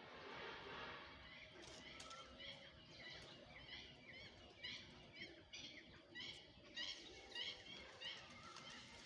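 Faint bird chirping: a quick series of short, repeated high chirps over a low outdoor background hiss.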